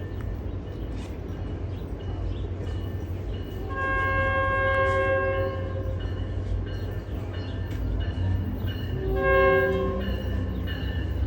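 Diesel locomotive horn sounding twice, a blast of about three seconds followed by a shorter one, over the steady low rumble of the locomotive.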